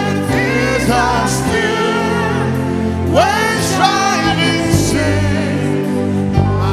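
Gospel hymn sung during praise and worship: a sung voice line over steady instrumental backing.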